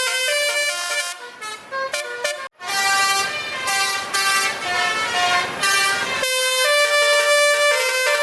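A truck's basuri musical air horns playing a melody of held notes that step from pitch to pitch, with a short break about two and a half seconds in. Steady vehicle noise runs under the notes until about six seconds in.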